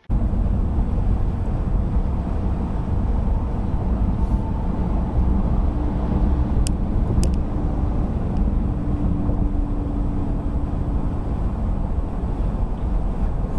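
Steady low rumble of a car driving, road and engine noise picked up by a dash cam inside the car, with two short ticks about seven seconds in.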